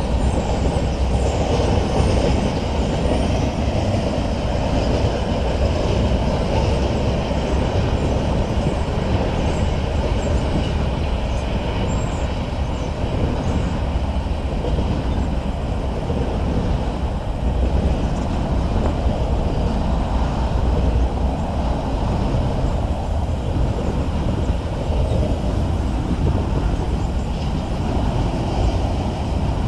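Train rolling past at close range: a steady, loud noise of railcar wheels on the rails that holds for the whole stretch.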